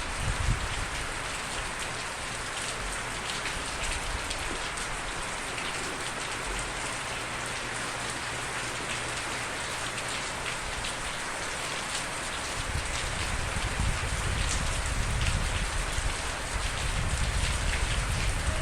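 Steady heavy rainfall: a dense hiss made of many fine drop taps, with a deeper rumble underneath that grows louder in the second half.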